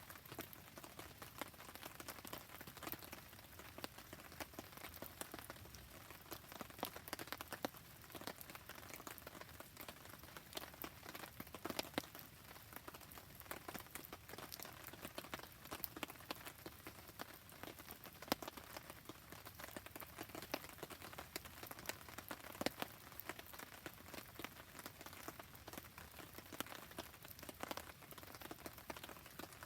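Steady rain falling, mixed with the crackle of a wood campfire. Many small sharp ticks and pops run through it.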